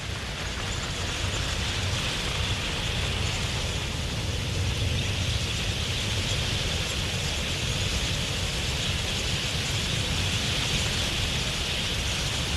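Huge flock of wild budgerigars massed in flight: a steady rushing din of countless wings and calls, even in level throughout.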